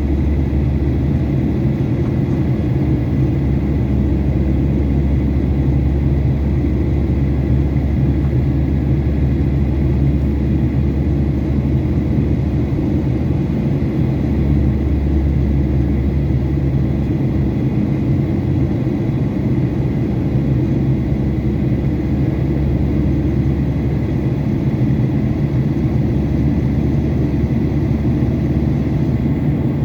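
Steady, unbroken low rumble of a Boeing 737-800's CFM56-7B turbofan engines running at power, with a steady hum underneath.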